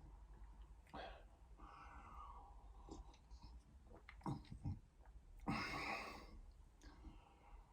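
Faint eating sounds from a man at the table: soft mouth clicks and chewing, with one louder breath of noise lasting under a second about five and a half seconds in.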